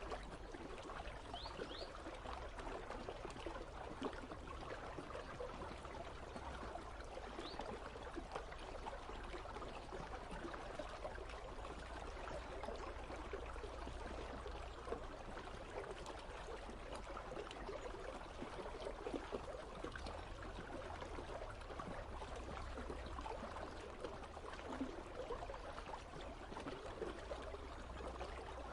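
Icy river flowing steadily: a continuous, even rush and trickle of running water.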